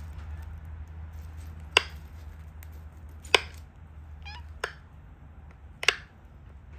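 Sharp clicks of flakes snapping off a stone Dalton point under pressure flaking, four of them a second or more apart, over a steady low hum. A cat gives one short meow about midway.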